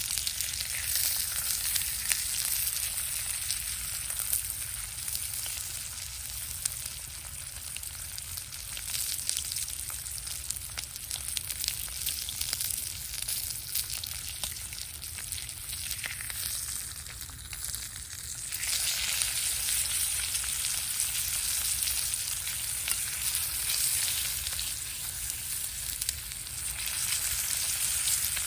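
Food frying, a steady sizzling hiss full of tiny crackles that eases for a moment about two-thirds of the way through, then comes back stronger.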